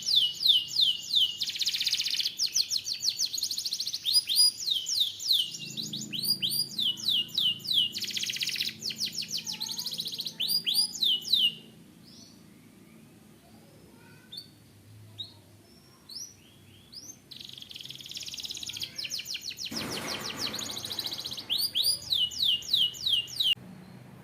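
Canary singing: fast trills of rapidly repeated down-sweeping notes and rolls. About halfway through the song breaks off into a few scattered soft chirps, then picks up again and stops shortly before the end.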